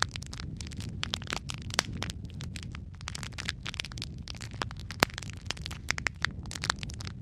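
Wood fire crackling: irregular sharp snaps and pops, several a second, over a steady low rumble of burning.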